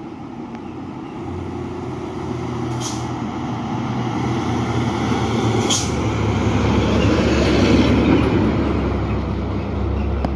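A truck engine pulling closer and growing louder, loudest about eight seconds in, its low note stepping up in pitch a few times as it drives through. Two short high hisses come about three seconds apart.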